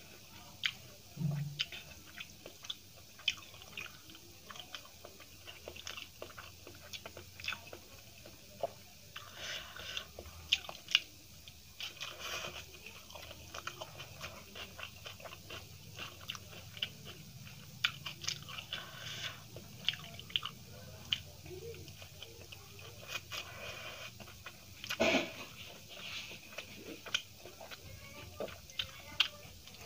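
A person chewing and biting mouthfuls of rice and potato curry eaten by hand: irregular clicks and smacks of chewing, with a few louder bites.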